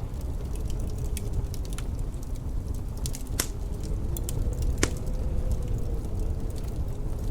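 Wood fire crackling in a fireplace, with scattered sharp pops and two louder ones in the middle. Under it runs a steady low rumble of blizzard wind, with a faint howl that rises and falls.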